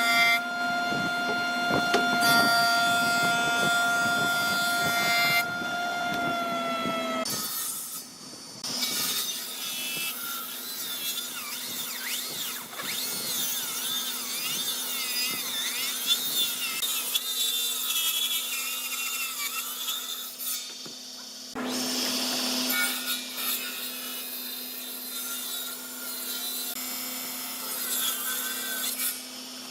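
Power woodworking machinery running and cutting wood, changing abruptly between short takes. The first take has a steady high motor whine that sags slightly in pitch around six to seven seconds in, as under load.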